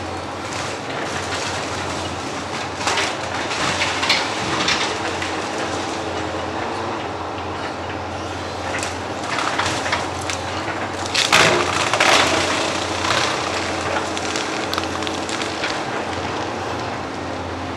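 Heavy construction machine's diesel engine running steadily, with irregular clanks and scraping from its work, the loudest about two-thirds of the way through.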